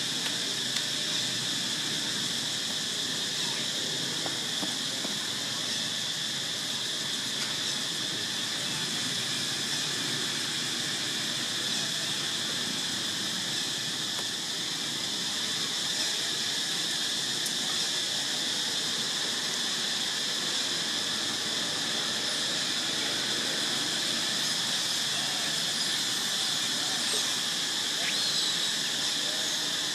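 Steady outdoor background: a continuous high-pitched drone over a faint low murmur, unchanging throughout.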